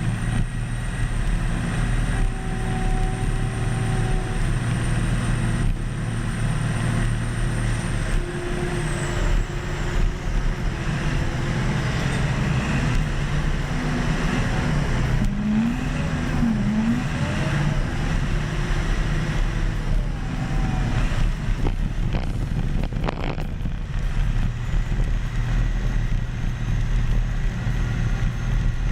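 Caterpillar D10 bulldozer's diesel engine running steadily under work, its pitch briefly rising and falling a few times about halfway through.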